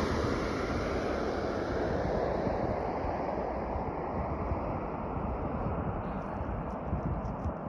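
Airplane engine noise fading slowly as the aircraft moves away after passing: a steady, even rush that grows gradually quieter.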